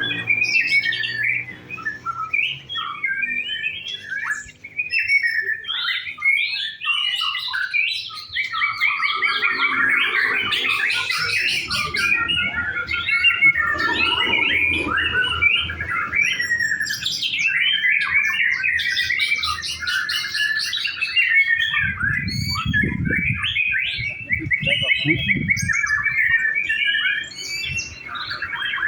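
White-rumped shama (murai batu) singing a continuous, varied song of rich whistles and rapid trills. A few low rumbles come in after about twenty-two seconds.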